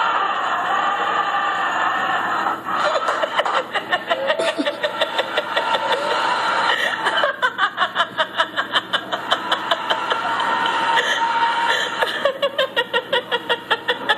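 A person laughing hard in fast, repeated ha-ha pulses, in several bouts starting a couple of seconds in.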